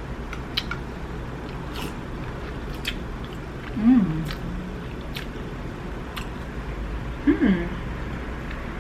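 Quiet, scattered clicks and taps of handling food and utensils, with two short rising-and-falling voice-like calls about four and seven seconds in.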